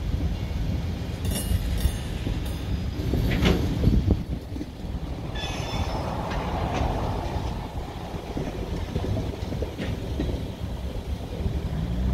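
Union Pacific freight train of refrigerated boxcars rolling slowly past, its wheels rumbling steadily on the rails, with several brief high-pitched wheel squeals.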